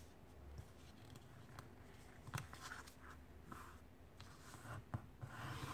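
A sheet of printer paper being folded and creased by hand: faint rustling and scraping, with a few soft clicks.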